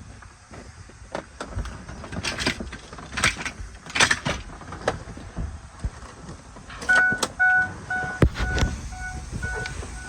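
Scattered knocks and clunks, then, about seven seconds in, a run of six or so short electronic beeps about half a second apart.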